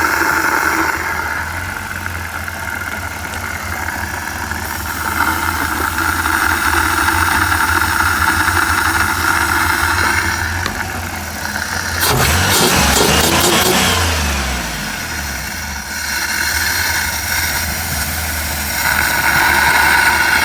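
1994 Chrysler Town & Country van engine running steadily. About twelve seconds in it is revved once, and the pitch falls back toward idle over a couple of seconds.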